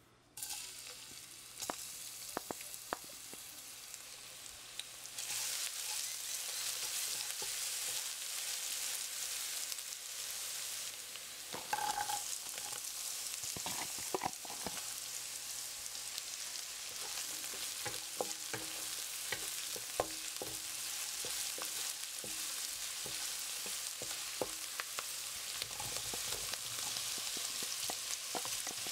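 Chopped onion frying in oil in a non-stick pan: a steady sizzle that starts about half a second in and grows louder about five seconds in. Scattered clicks and scrapes of stirring against the pan run through it.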